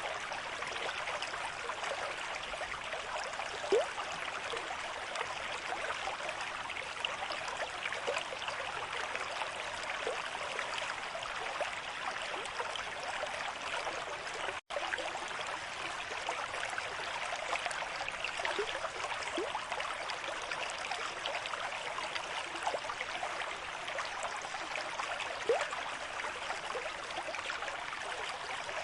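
River stream flowing at a moderate rate: a steady rush of water with a few brief louder splashes. The sound cuts out for an instant about halfway through.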